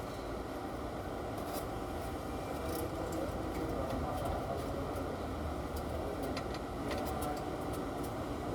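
Isuzu 4BD1 turbo four-cylinder diesel engine running steadily, with a few faint ticks over the rumble.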